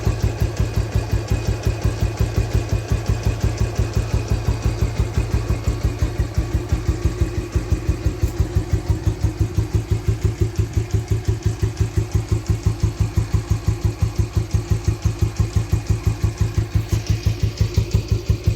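1964 Royal Enfield Bullet 350's single-cylinder four-stroke engine idling with a steady, even beat of about five or six pulses a second.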